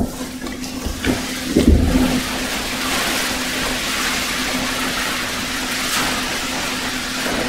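Kayak paddles splashing and churning pool water as two kayaks are paddled hard, a steady wash of splashing, with a few low knocks in the first two seconds.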